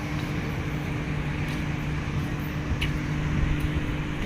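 Steady running noise of a train: a constant low hum over an even rumble, with no change in pitch.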